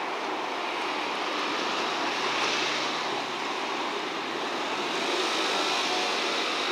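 Steady running noise of a train on the rails, an even rushing rumble with a faint high tone held throughout.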